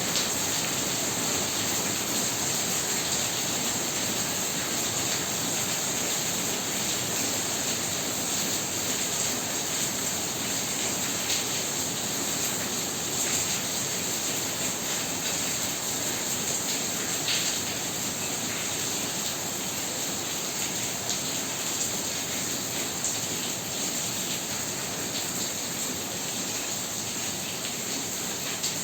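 Heavy rain falling steadily: a dense, even hiss of downpour with scattered drops ticking.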